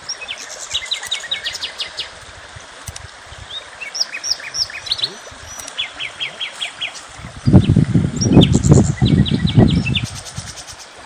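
Small birds chirping and singing, with quick runs of short high notes repeated throughout. From about seven and a half seconds in, a louder low rumbling runs for about two and a half seconds under the birdsong.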